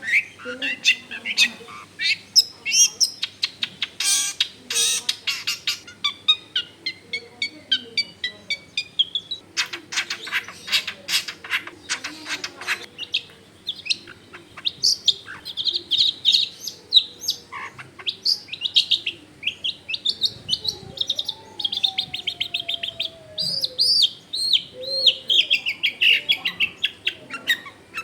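Long-tailed shrike singing a fast, varied song of high chirps and warbled notes, broken by two spells of rapid, dry, clicking rattles.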